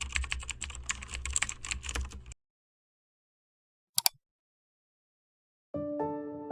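Rapid typing on a computer keyboard for about two seconds, stopping abruptly, followed by a quick double click about four seconds in. Soft piano music begins near the end.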